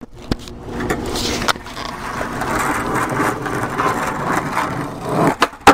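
Skateboard wheels rolling over wet pavement with a rough, rattly noise, broken by a sharp click early on and ending in one loud clack of the board, as from a pop or landing about five and a half seconds in.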